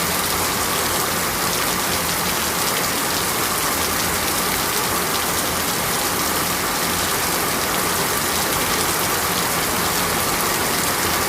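Heavy rain falling steadily: a dense, even hiss of drops hitting a surface, with no let-up.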